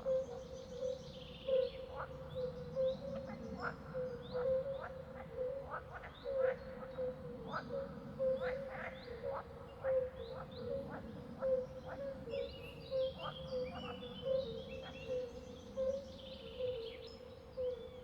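Frogs calling in a continuous pulsing chorus, with birds chirping and trilling over them; the bird trills are busiest at the start and in the last few seconds.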